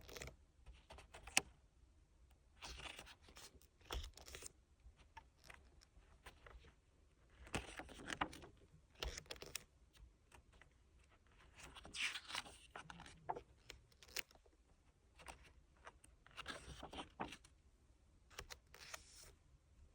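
Hands unboxing a photobook album: irregular rustling, scraping and light taps of paper, card and plastic packaging being handled and torn open.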